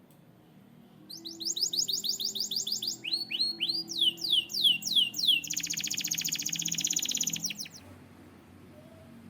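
Canary singing one phrase of repeated notes. About a second in it starts a quick run of high falling whistles, then a slower, lower series, then a very fast trill that stops about a second and a half before the end.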